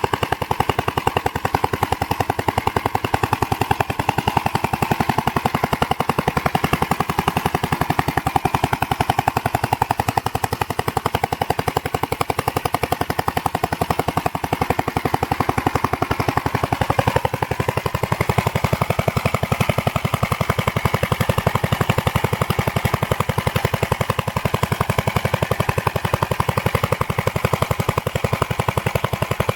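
Gravely Model LS walk-behind tractor's single-cylinder engine running steadily, its rapid exhaust pulses coming through a muffler that is getting pretty darn loud. No real loud knocking or clicking from the engine. The tone of the running shifts about halfway through.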